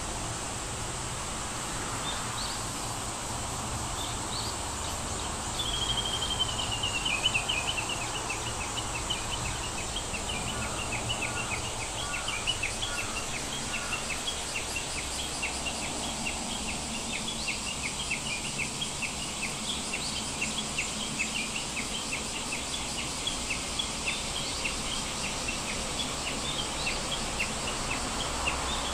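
Small birds chirping over a steady background hiss: a quick falling trill about six seconds in, then rapid, evenly repeated high chirps for the rest of the time.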